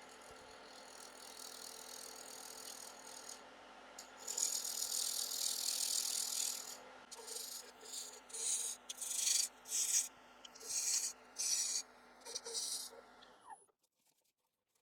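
Wood lathe running with an acrylic pen blank spinning while a spindle gouge cuts it: a steady motor hum, a long hissing cut about four seconds in, then a run of short scraping cuts, somewhat under two a second. All sound stops suddenly near the end.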